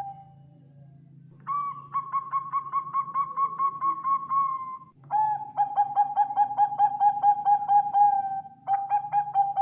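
Zebra dove (perkutut) song: long runs of rapid staccato coos, about four to five notes a second. The first phrase starts about 1.5 s in, a lower-pitched one follows after a short break around 5 s, and a third begins near the end. A faint low hum runs underneath.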